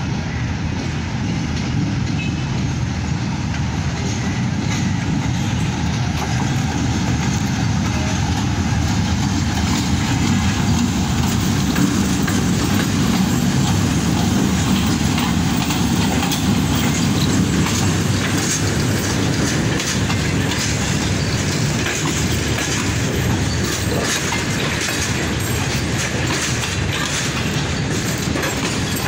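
A Pakistan Railways GEU-40 diesel-electric locomotive passing close by with its engine running, loudest around the middle. Its passenger coaches then roll past with a steady clickety-clack of wheels over the rail joints.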